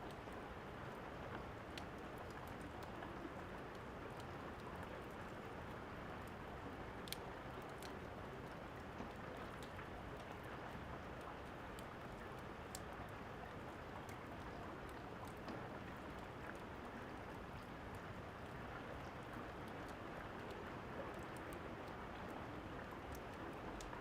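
Steady rainfall hiss with a few sharp, scattered crackle pops from a fireplace fire.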